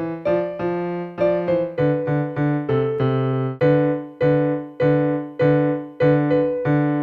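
Electronic keyboard with a piano voice playing with both hands, a low note and a higher note struck together each time. A run of quick, even notes gives way a few seconds in to slower, longer-held notes, then quick notes again near the end.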